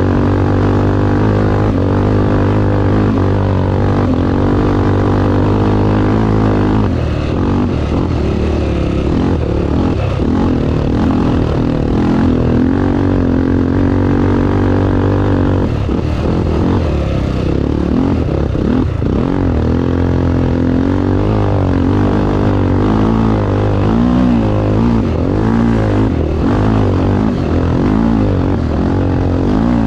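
Racing vehicle engine running loud and continuously, holding a steady note at first, then wavering up and down in quick repeated swells during the second half.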